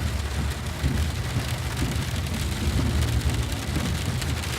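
Steady low rumble of a car driving on the road, with freezing rain pattering on it in many fine ticks.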